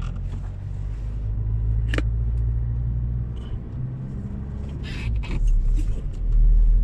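Car driving off at low speed, its engine and road noise a steady low rumble. A single sharp click comes about two seconds in, and the rumble swells louder near the end.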